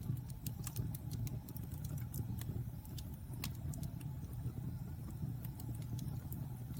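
Fire burning in a fireplace: irregular sharp crackles and pops, many a second at times, over a steady low rumble of the flames.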